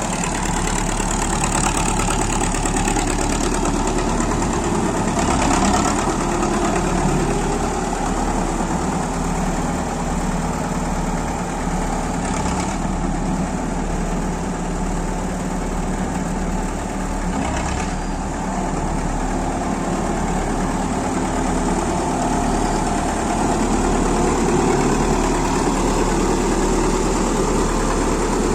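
Fiat R-55 tractor engine running steadily at idle, with a few brief swells in its sound along the way.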